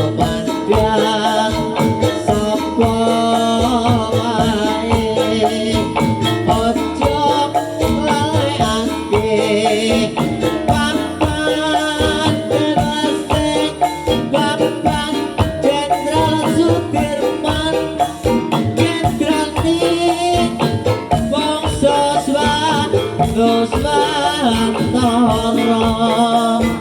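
Live jaranan dangdut music: a percussion-heavy ensemble playing a steady, busy beat with jingling rattles, and a singing voice over it.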